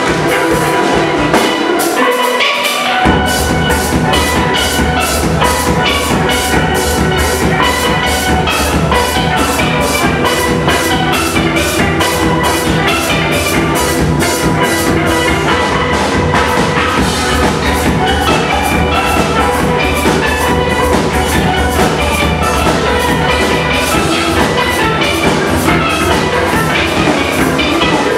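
Steel band playing live: steelpans carrying a quick, rhythmic melody over drums. The low bass drops out briefly about two seconds in and comes back a second later.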